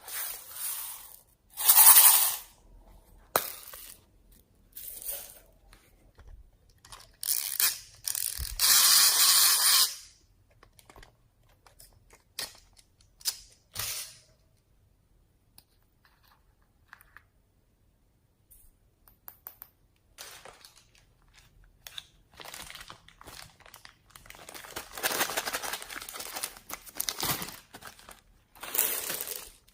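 Slime mixed with clay being squished, stretched and folded by hand, in irregular bursts of noise with pauses between them and a quieter lull in the middle.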